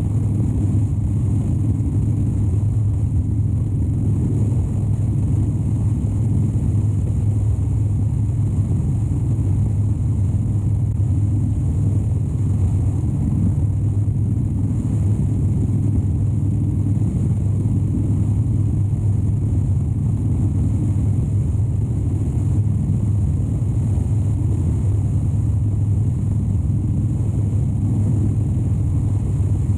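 2013 Harley-Davidson Dyna Wide Glide's 103-cubic-inch V-twin running steadily, a constant low drone with no revving up or down.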